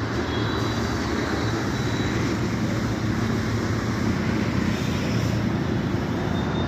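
A heavy vehicle's engine running steadily, a low, even drone.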